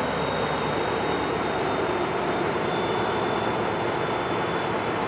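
Steady running of an idling diesel locomotive of a Pacific Surfliner train standing at the platform, an even engine noise with a thin high whine over it.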